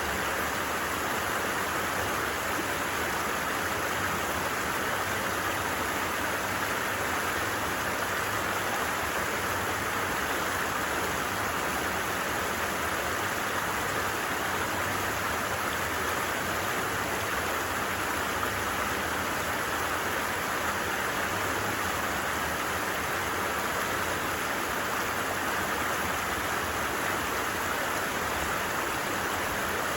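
A stream running, an even, unbroken rush of water.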